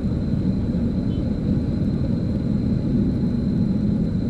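Steady low rumble of motor vehicle engines running, with no sudden sounds.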